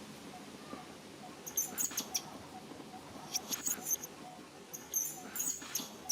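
Baby monkey giving short, high-pitched squeaks in three quick clusters.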